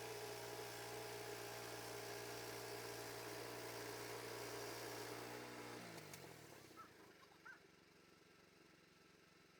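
An engine running at steady speed, then slowing, with its pitch falling, and stopping about six to seven seconds in. Faint chirps follow.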